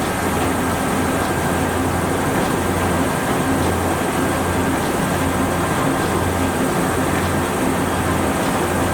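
Ink rollers of a printing press's inking unit spinning idle with no paper running. It is a steady mechanical rumble and whir with a gently pulsing low hum and a faint steady high whine.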